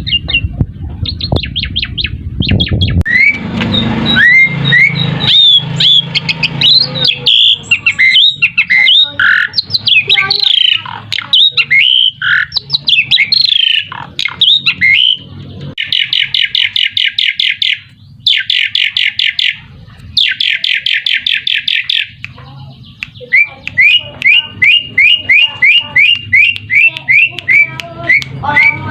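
Asian pied starling (jalak suren) singing: a busy mix of whistles and chattering calls, with two spells of rapid buzzy trills about halfway through and a run of quick rising whistles near the end.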